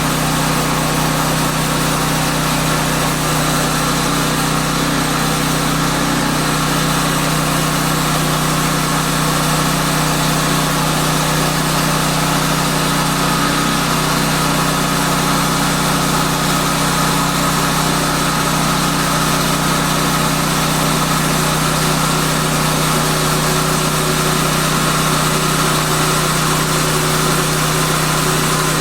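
Woodland Mills portable sawmill's gasoline engine running at a steady speed.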